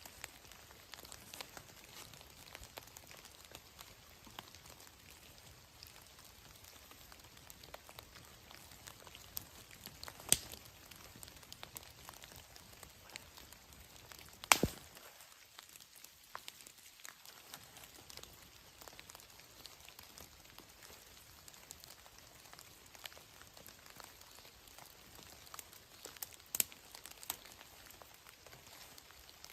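Light rain pattering steadily, with scattered sharp drips or ticks; the loudest single tick falls about halfway through.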